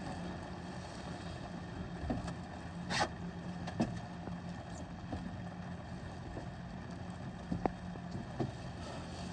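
A boat's motor humming steadily at a low pitch under a hiss of noise, with a few scattered light knocks, the sharpest about three seconds in.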